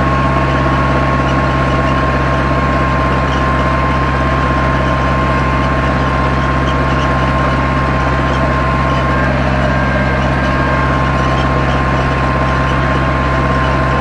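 Zetor 7245 tractor's four-cylinder diesel engine running steadily under load while pulling a plough, with a steady high whine over the engine note.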